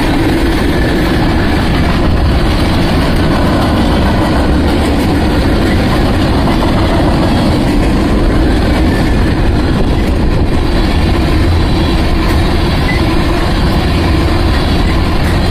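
Freight train cars, covered hoppers and then tank cars, rolling past: a loud, steady rumble of steel wheels on rail.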